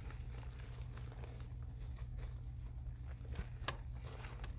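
Faint rustling, light taps and clicks from handling flexible HVAC duct while it is fitted onto a collar, with one clearer click near the end, over a steady low hum.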